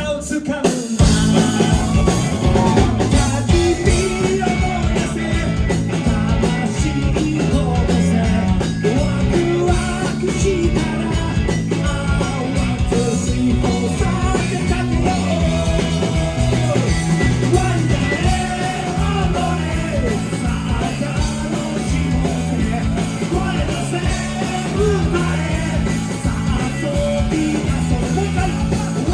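Rock band playing live, with singing over a steady beat.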